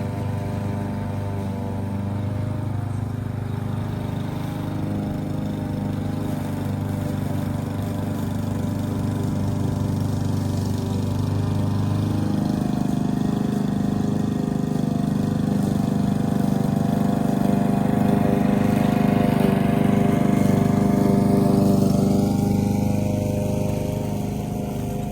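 Lawn mower engine running steadily while cutting grass. Its note shifts about halfway through, and it grows somewhat louder toward the end.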